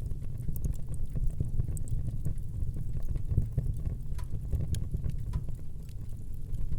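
Wood fire burning in a fireplace, a steady low rumble of flames with frequent small crackles and pops from the burning logs.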